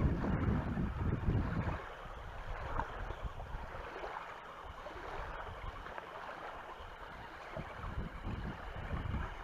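Wind buffeting the microphone: low gusty rumbling for the first two seconds or so, then a steadier, quieter rush of wind.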